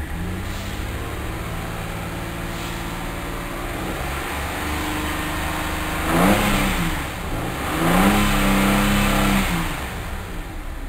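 2008 Holden Commodore's 3.6-litre V6 running at a steady fast idle, then revved twice while the car stands still, heard from inside the cabin. Each rev climbs for a second or more and falls back, the second held longer.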